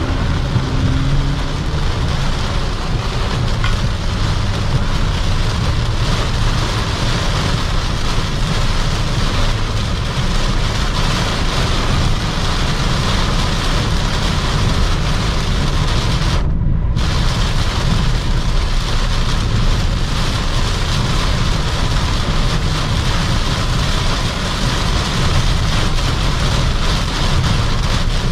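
Heavy rain and road noise heard inside a Toyota Camry 3.5Q at highway speed, a steady loud rush over the 2GR-FE V6 engine, whose note rises near the start. The hiss drops away for a moment about two-thirds of the way through.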